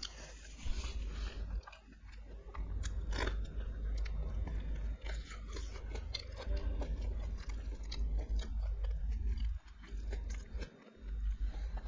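Close-miked chewing and biting of food, wet smacks with scattered sharp crunchy clicks, over a steady low hum.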